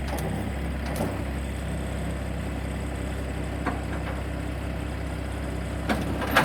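A vehicle engine running steadily at low revs, with a few short clicks and a sharper knock near the end.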